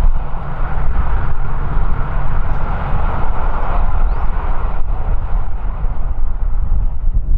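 Strong wind buffeting the microphone in a loud, uneven low rumble, over a steady rushing noise that thins out near the end.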